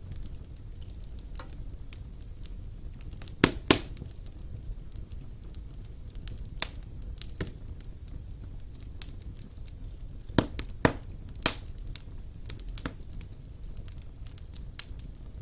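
Wood fire burning in a fireplace: a steady low rumble of flames with irregular sharp crackles and pops from the burning logs, the loudest pops in a pair about three and a half seconds in and a cluster of three around ten to eleven and a half seconds in.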